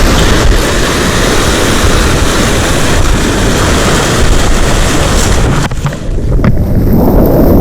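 Sea surf rushing and washing, with heavy wind noise on the microphone. Near the end the rush of water drops away sharply, leaving a low wind rumble and a few faint clicks.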